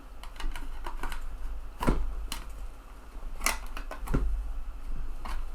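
Sharp mechanical clicks and knocks, about five spread over a few seconds, from working the mechanism of an opened TEAC FD-235F 3.5-inch floppy drive that has an eject fault, over a steady low hum.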